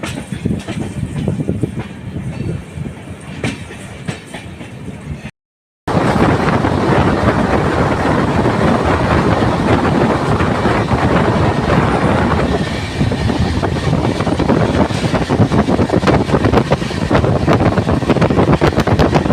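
Passenger train running along the track: a steady rumble of wheels and carriage with many small clicks. The sound cuts out for about half a second about five seconds in and comes back much louder.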